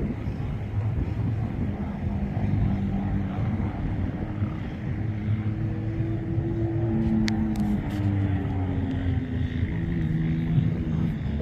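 Engines of off-road dune vehicles running across the sand, their pitch drifting slowly up and down as they pass.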